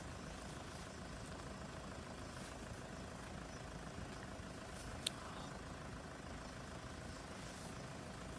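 Steady low rumble of an idling engine with a faint steady hum, and a single sharp click about five seconds in.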